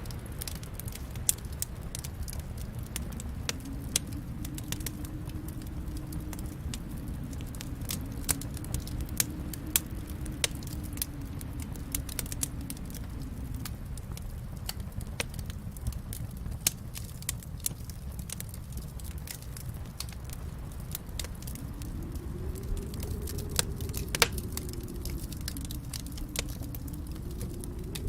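Fireplace fire crackling, with frequent irregular sharp pops over a steady low rumble of the flames.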